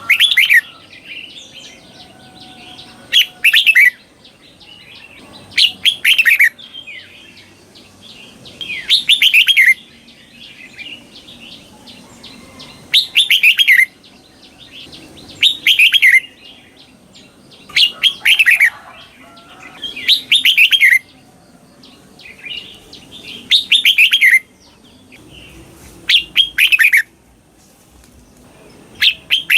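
Red-whiskered bulbul singing its 'double' (เบิ้ล) song: short, loud phrases of quick whistled notes that fall in pitch, repeated about every two to three seconds, about eleven phrases in all. This is the song type used to train caged bulbuls.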